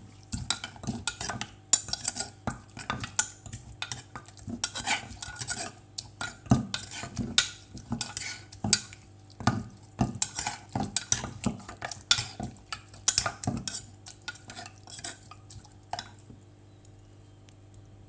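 Kitchen utensils knocking and clinking against a bowl in an irregular run of sharp strikes, several a second, as the papaya salad is mixed. The clatter stops near the end.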